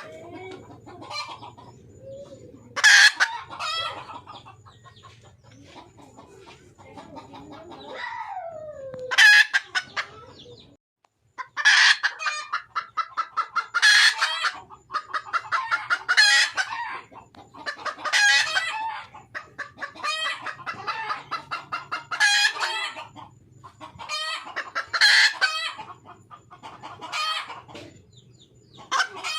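Wild junglefowl hen calling for a male: loud bursts of fast, repeated clucking notes, coming about every two seconds.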